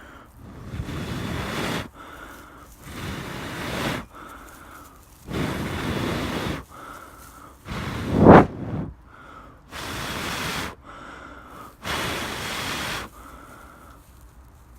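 A person blowing in long, steady breaths into a smouldering tinder bundle of dry grass to fan a char cloth ember into flame. There are six breaths, each about a second long with short pauses between; one a little past the middle is the loudest.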